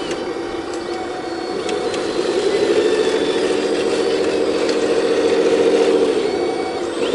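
Heavy diesel engine of earth-moving equipment revving up about two seconds in, holding at high revs under load for a few seconds, then dropping back near the end.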